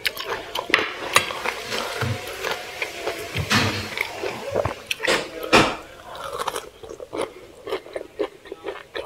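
Close-miked eating sounds: chewing and biting food, with wet mouth noises and irregular crunchy clicks, the loudest about three and a half and five and a half seconds in.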